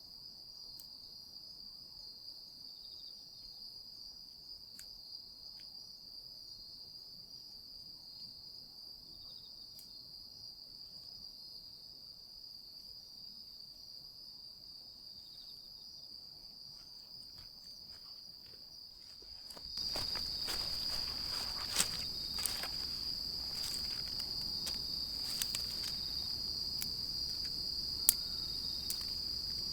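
Late-summer insects trilling steadily in one unbroken high-pitched drone. A little past two-thirds of the way in, a louder hiss with frequent sharp crackles comes in on top: a small wood campfire burning and crackling.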